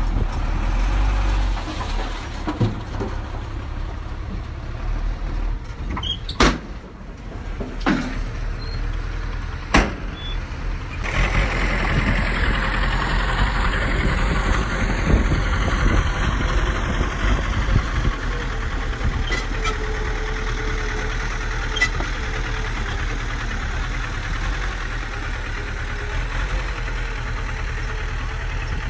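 Diesel engine of heavy earthmoving machinery running steadily, with a few sharp knocks about a third of the way in, and a louder, harsher running from about the middle on.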